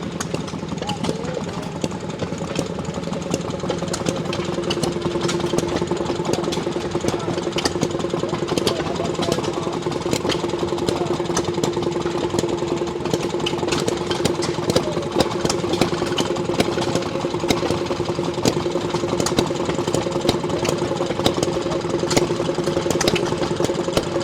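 An engine running steadily with rapid clicking and knocking. A steady pitched whine joins it about four seconds in.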